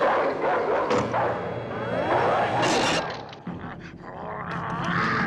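Animated cartoon soundtrack with a dog barking and yipping, and a short hissing burst about halfway through.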